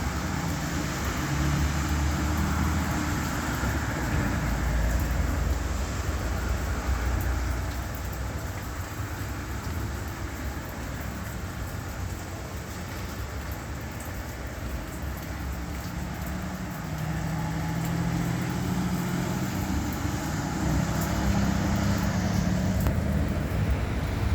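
Road traffic: vehicle engines with a steady tyre hiss, swelling as vehicles pass a few seconds in and again near the end.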